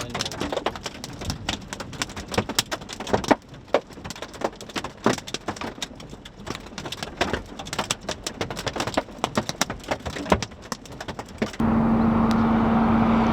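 Hailstones and rain striking the vehicle: irregular sharp taps, several a second. Near the end this gives way abruptly to a steady, louder hum with one low steady tone.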